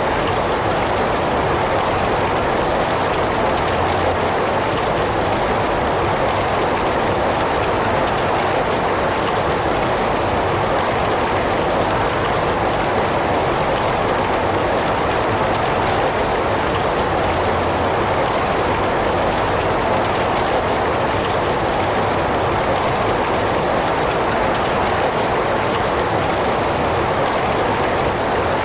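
Heavy rain falling steadily: a dense, even hiss of rain with no separate drops standing out and no change in strength.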